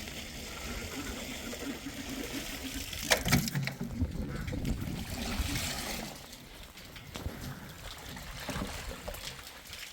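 Water trickling and splashing, with a couple of sharp knocks about three seconds in.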